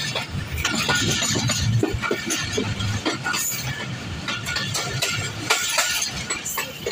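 Passenger train coaches of the Jaffar Express running at speed, heard from an open coach doorway: steel wheels clatter and clink irregularly over the rails above a steady rush of noise.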